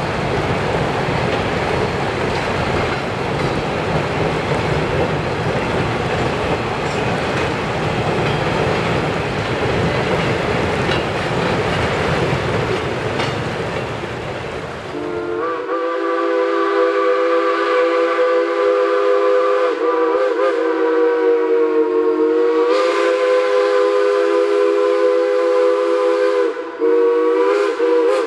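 Passenger cars and a caboose rolling over a short steel trestle, wheels clicking over the rail joints. About halfway through this gives way suddenly to a steam locomotive's chime whistle blowing one long, steady chord that dips briefly in pitch three times.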